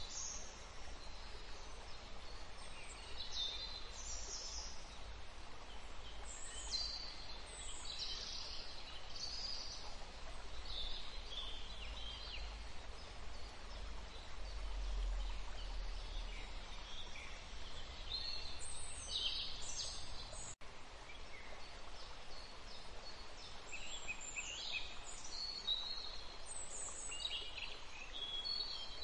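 Wild songbirds chirping in short, high-pitched phrases over a steady background hiss of outdoor ambience; the sound drops out for an instant about two-thirds of the way through.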